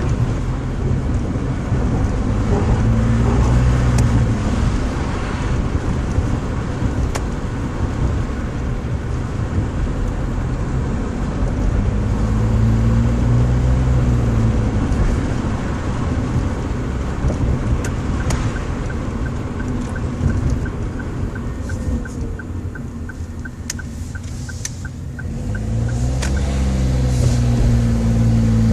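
Daihatsu Move Custom RS (L175S) three-cylinder 660 cc engine with a low, deep drone, its revs rising and falling three times. In a quieter stretch past the middle it settles low while a fast, regular ticking sounds, then the revs climb again near the end.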